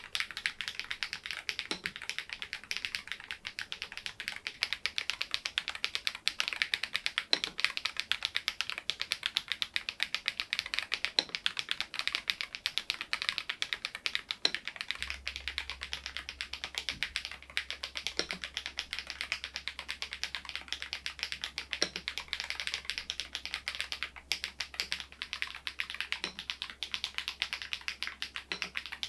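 SMURVE80 mechanical keyboard being typed on continuously, a steady rapid stream of key-switch clicks, with the solenoid module not in use.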